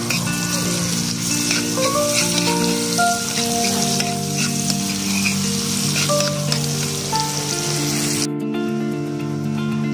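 Minced garlic and onion sizzling in melted margarine and oil in a metal wok, stirred with a spoon. The sizzle cuts off suddenly about eight seconds in. Background music plays throughout.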